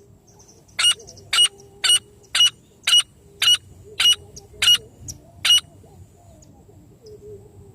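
Francolin (teetar) calling: a fast run of nine short, sharp, high notes, about two a second, that then stops.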